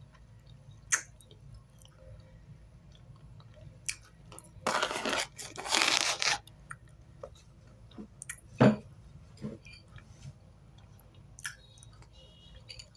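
Close-up chewing of a mouthful of dry white eating clay (chalk): sharp crunches here and there, and a longer stretch of gritty crunching about five seconds in, the loudest single crunch coming near the end.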